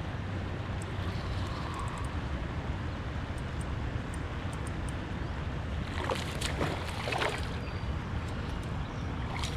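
Steady rush of moving river water around a kayak, with a few short, sharper splashes about six to seven seconds in.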